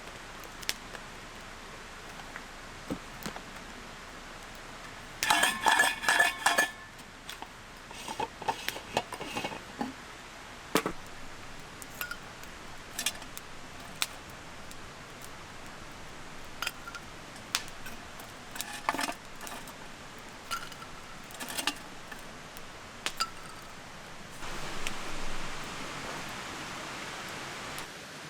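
Metal camp cookware and utensils clinking and clattering, with scattered light knocks. The loudest is a quick run of ringing clinks about five seconds in, and a steady hiss lasts for a few seconds near the end.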